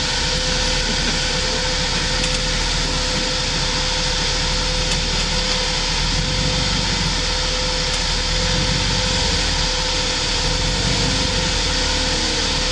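Off-road vehicle's engine running steadily at an even speed, with a steady whine and hiss over the rumble.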